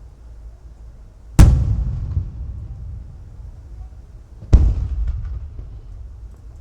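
Two aerial firework shells bursting about three seconds apart, each a sharp boom followed by a rolling echo that dies away, over a low rumble.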